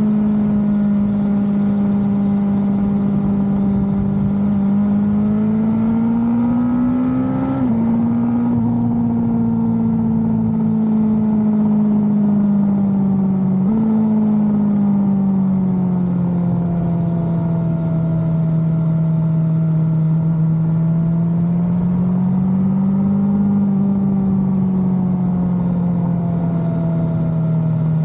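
Motorcycle engine running under way, its note rising and falling with the throttle. The pitch steps down suddenly about a quarter of the way in and jumps up about halfway through, as gears are changed.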